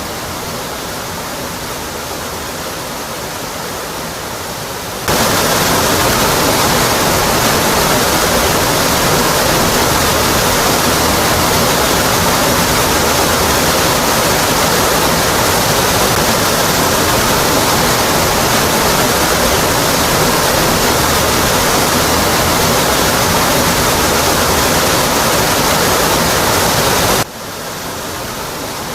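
Waterfall rushing, a steady, dense roar of falling water. About five seconds in it suddenly becomes louder and fuller, and near the end it drops back just as suddenly.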